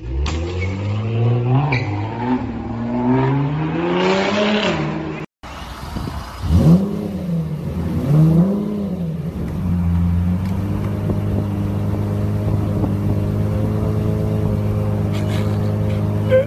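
A sports car engine revving up and down, then, after an abrupt cut a little over five seconds in, a Lamborghini's V12 blipped twice and settling into a steady idle.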